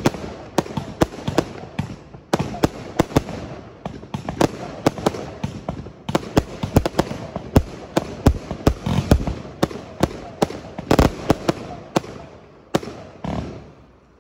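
Fireworks display: aerial shells bursting in a rapid run of sharp bangs, several a second, with one louder burst about two-thirds of the way through. The bangs thin out and grow quieter near the end.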